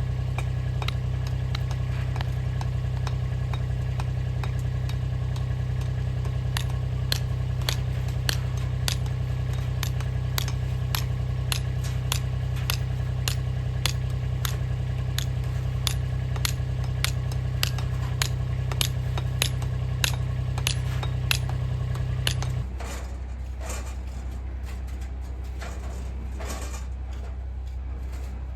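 A machine's steady motor hum with sharp clicks or clinks about twice a second. About 23 seconds in the hum drops abruptly to a lower, quieter drone, and the clicks turn irregular.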